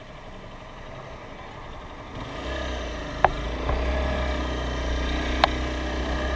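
Motorcycle running in traffic, quiet at first and then louder about two seconds in as it picks up speed, with a heavy low rumble of wind on the microphone. Two sharp clicks stand out, about a second and later about three seconds after the rise.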